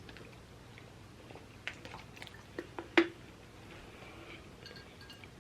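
Eating sounds from the spicy noodle mukbang: soft chewing with a few short, wet mouth or utensil clicks, the loudest about three seconds in.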